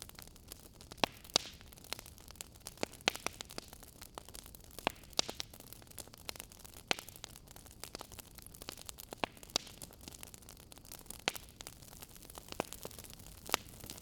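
Wood fire in a fireplace crackling: a low steady hiss with irregular sharp pops and snaps, a few every second.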